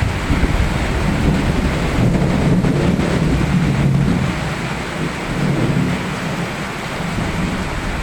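Steady rain falling with a long, rolling rumble of thunder that is strongest in the first half and fades toward the end.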